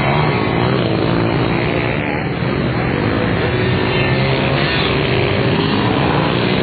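Small pit bike engine running hard on a dirt track, its pitch rising and falling as it revs.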